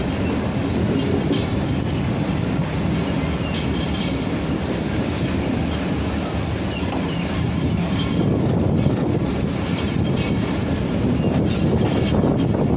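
Train running along the track, its wheels and carriages clattering steadily, with a few faint, brief high wheel squeals about halfway through.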